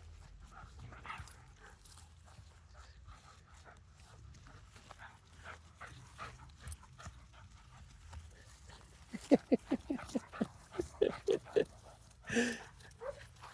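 Dog panting hard in quick short breaths, about four or five a second, for a few seconds past the middle, followed by one louder single vocal sound. Faint footsteps before it.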